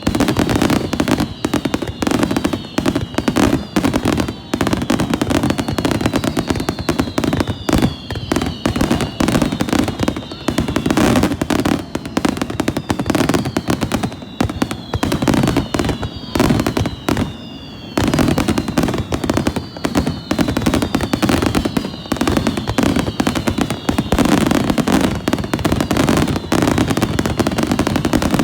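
Fireworks display: a dense, continuous barrage of bangs and crackles, with repeated falling whistling tones over it.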